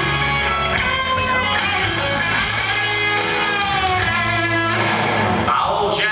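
Guitar music with a steady bass line: the instrumental intro of a song, before the singing comes in.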